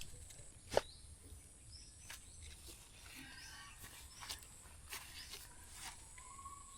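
Quiet outdoor ambience broken by a few sharp clicks, the loudest about a second in.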